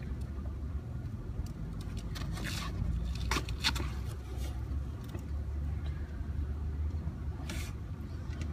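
Steady low rumble of an engine running at idle, with a few short scraping noises about two and a half, three and a half and seven and a half seconds in.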